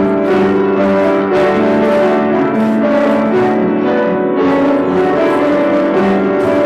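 Piano or keyboard playing slow, sustained chords and melody, as church music during communion.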